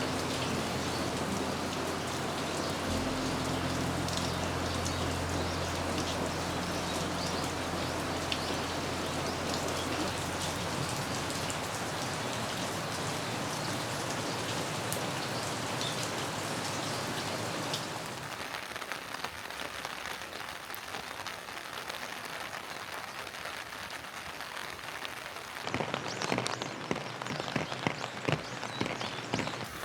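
Steady heavy rain falling, a dense hiss of drops; about two-thirds of the way through it softens, and near the end separate drops ticking and pattering stand out.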